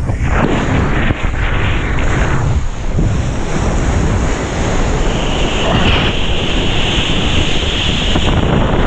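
Strong wind buffeting the GoPro's microphone while kitesurfing, over the rush and splash of choppy water and breaking waves. A steadier, brighter hiss sets in about five seconds in and lasts until near the end.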